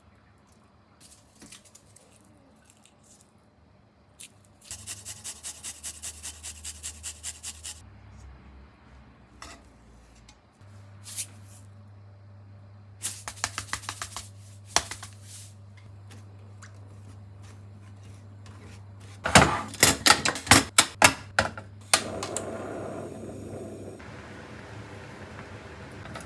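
Kitchen utensil sounds while preparing a sweet chili sauce: a run of quick, even strokes, then scattered clicks and clinks, and a cluster of sharp knocks followed by a steady hiss near the end.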